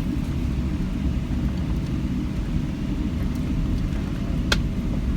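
Steady low rumble of a Qatar Airways airliner heard from inside the cabin during landing, with one sharp click about four and a half seconds in.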